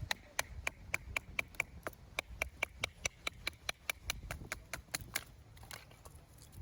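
A rapid run of sharp, even clicks, about four a second, that stops about five seconds in.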